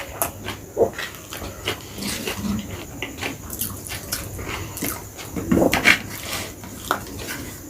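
Close-miked eating sounds: wet chewing and lip smacks of a mouthful of chicken biryani, many short clicks, with a louder run of them around six seconds in.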